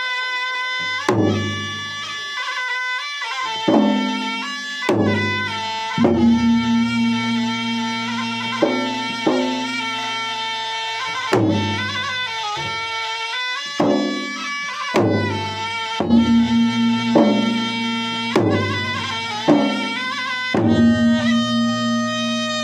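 Traditional Makassar wedding drum music from Maros: gendang drums struck in heavy, uneven beats about every one to two seconds, under a reedy wind instrument playing a continuous melody.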